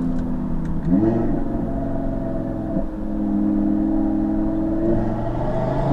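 2017 Audi TT RS's turbocharged five-cylinder engine with its sports exhaust, heard from inside the cabin while driving. The engine note rises in pitch about a second in, holds steady, then drops back near the end.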